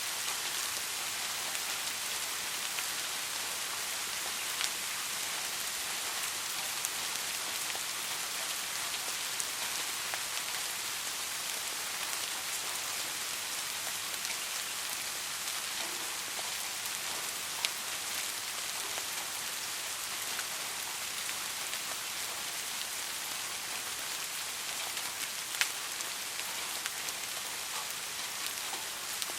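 Steady soft rain, with a dense even patter and now and then a single louder drop.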